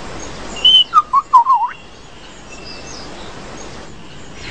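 Lyrebird singing: a short high whistle followed by a quick run of four loud looping whistled notes, then a quiet forest background with faint distant bird calls.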